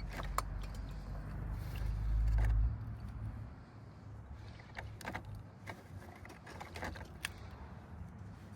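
A low rumble, loudest about two seconds in, that stops suddenly, followed by scattered light clicks and knocks as the new oil filter and tools are handled.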